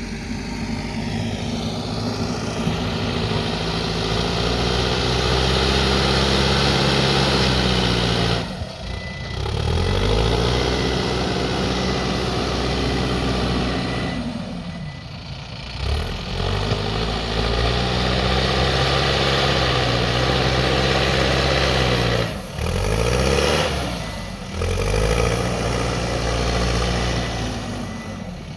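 Backhoe loader's diesel engine working hard: it revs up and holds high under load, then drops back briefly before revving up again, five times over.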